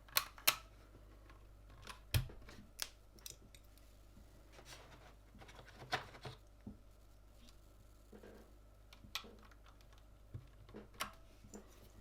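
Sharp, irregular plastic clicks and taps of mechanical keyboard parts being handled and pressed into place on a Gamakay LK67 keyboard kit, a dozen or so spread unevenly, with a louder knock about two seconds in.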